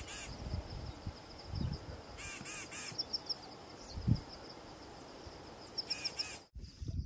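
Wild birds calling: two quick runs of three or four short harsh calls, over a steady high-pitched trill of rapid notes, with a single low thump about four seconds in.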